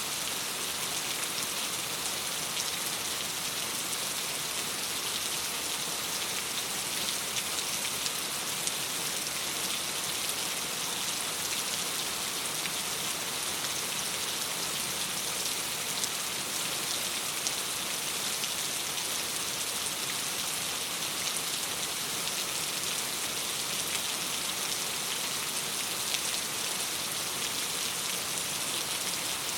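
Steady rain on a window pane: an even hiss of drops, with scattered small ticks.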